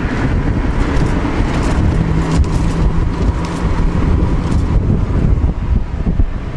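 Off-road 4x4 truck engine running while driving a rough dirt trail, with scattered knocks and rattles and some wind noise on the microphone. A steady engine drone holds for a couple of seconds midway.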